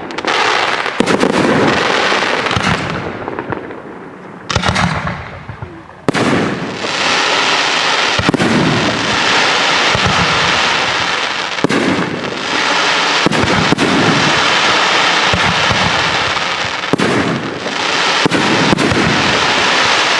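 Aerial fireworks display: shells bursting in rapid, overlapping volleys with dense crackling. It eases to a brief lull a few seconds in, then builds again with a sharp bang and keeps going thickly.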